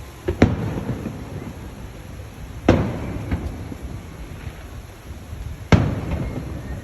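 Hurricane wind rumbling steadily, with three sudden loud bangs about three seconds apart, each trailing off briefly.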